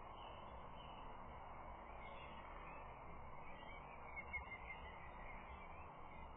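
Steady outdoor hiss and wind noise through a nest camera's microphone, with a few faint, short bird calls about four seconds in.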